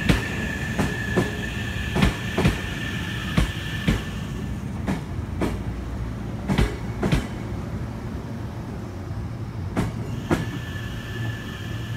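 Hankyu electric commuter train rolling slowly along the platform, its wheels clacking in pairs over the rail joints. The pairs come further and further apart as the train slows, and a steady high tone sounds at first, drops out, and returns near the end.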